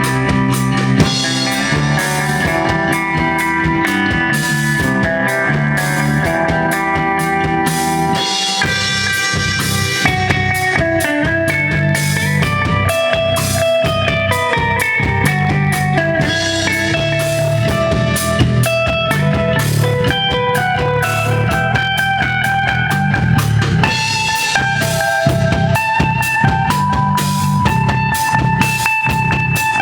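Rock band playing an instrumental passage live: electric guitar lead lines over bass and a drum kit keeping a steady beat.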